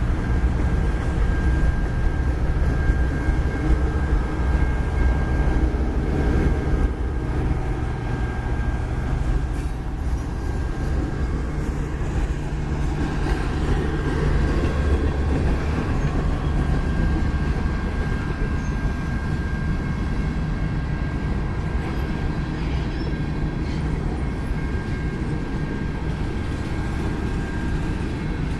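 Freight cars, a boxcar and covered hoppers, rolling past on the rails: a steady low rumble of wheels and car bodies, with a faint steady high-pitched tone above it through most of the passage.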